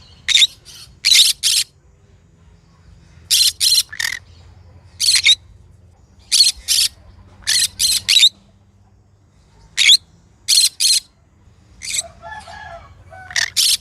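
Green conure calling in short, sharp screeches, mostly in quick pairs and triplets, a new burst every second or so.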